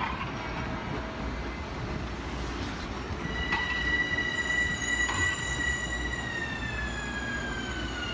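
Metro-North commuter train rolling past with a steady low rumble. About three seconds in, a high-pitched wheel squeal sets in, holds steady, then slides down in pitch near the end.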